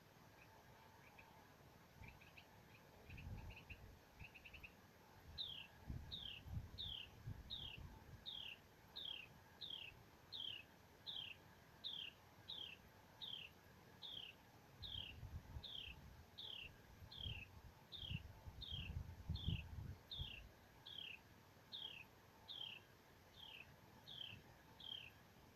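A bird calling over and over: a short falling whistle repeated a little more than once a second from about five seconds in, after a few softer, shorter notes. Low rumbles come and go underneath, loudest a little before the end.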